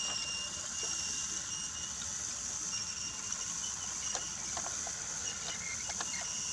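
Brio toy train running on wooden track: a steady thin whine from its small motor, with scattered light clicks from the wheels over the track joints, several of them bunched between about four and six seconds in.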